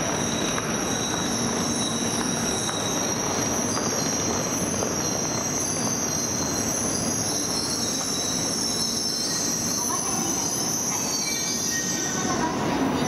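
E2 series Shinkansen electric train pulling into the platform and slowing to a stop. Its running noise carries a steady high-pitched squeal as it brakes, fading out near the end as it halts.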